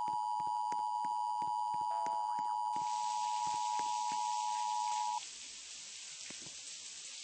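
A steady electronic beep tone held for about five seconds over a regular ticking of about three ticks a second; the beep then cuts off, leaving a faint hiss.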